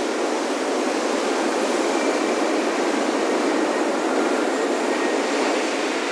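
Breaking ocean surf, a steady rushing wash of waves that swells a little in the middle, with faint wind chime tones ringing now and then.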